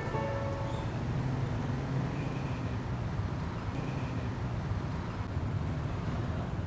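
Outdoor city ambience: a steady low rumble of road traffic.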